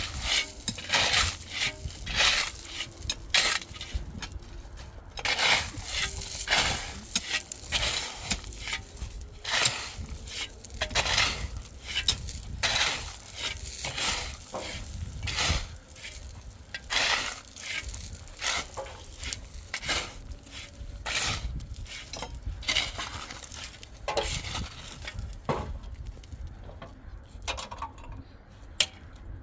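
An irregular series of short scraping and clattering strokes, one or two a second, thinning out near the end.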